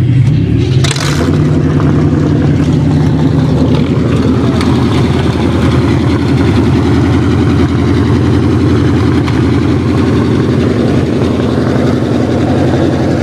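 Car engine running steadily at low speed, with a short burst of noise about a second in.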